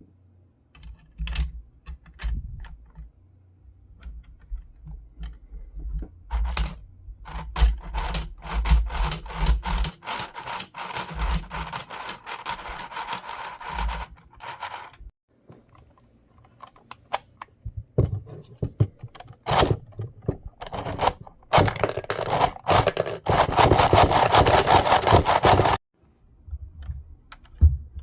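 Clicking, rattling and scraping of 3D-printed plastic parts as crossbow bolts are handled and loaded into a crossbow magazine, with two longer spells of dense rapid clicking.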